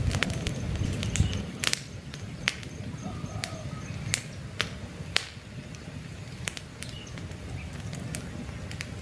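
Wood campfire crackling, with sharp irregular pops and snaps over a steady low rumble of burning flames; the rumble is heavier in the first couple of seconds. Faint bird chirps sound in the background.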